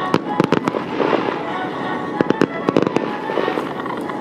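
Aerial fireworks bursting: repeated sharp bangs in quick clusters, a few per second, over a continuous crackling wash, with music playing behind them.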